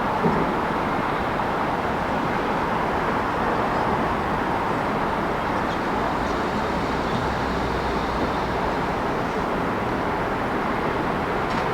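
Steady city traffic noise, an even rush of vehicles with no single event standing out.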